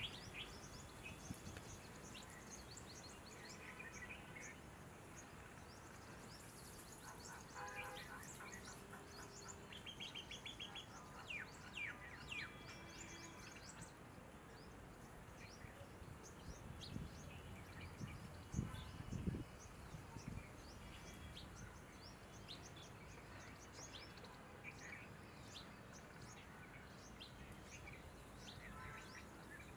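Faint outdoor birdsong: many short chirps and twittering calls from several birds, with a run of rapid pulsed notes about a third of the way in. A few low thuds come about two-thirds of the way through.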